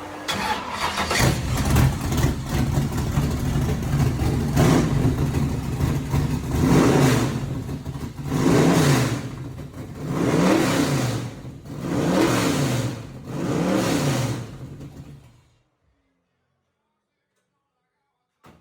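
Fuel-injected Chevy engine in a 1927 Ford Model T rat rod running through loud pipes, revved up and back down again and again. It cuts off suddenly about fifteen seconds in.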